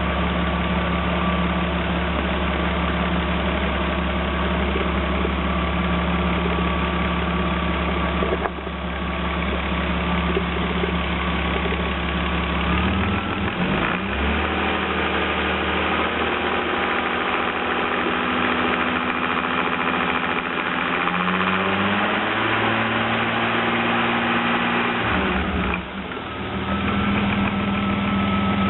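BMW 325i race car's straight-six engine running steadily. About halfway through its note changes and climbs in a few steps, then dips briefly near the end before settling back.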